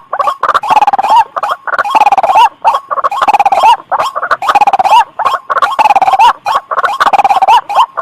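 White-breasted waterhen calling: loud, rapidly pulsing calls repeated in runs, each ending in a short upward hook, about one run a second with brief gaps.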